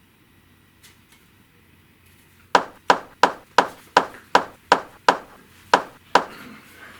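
A run of ten sharp knocks in an even rhythm, about three a second, starting two and a half seconds in, with a short pause before the last two.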